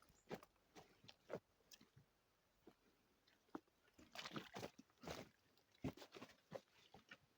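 Faint, irregular clicks and knocks, with a short stretch of rustling about four to five seconds in.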